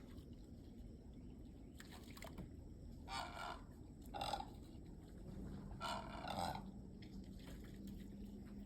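Great egret giving four croaking calls, the last the longest, with a steady low hum joining about halfway through.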